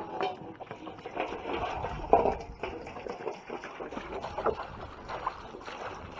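Water being poured and splashing into a water container, an uneven run of small splashes throughout.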